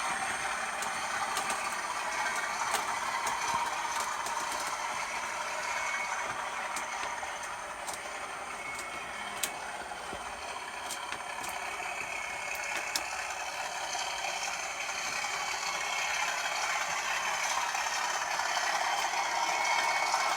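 Class 37 diesel locomotive running, a steady mechanical engine sound with scattered clicks and rattling. It eases off somewhat in the middle and builds again toward the end.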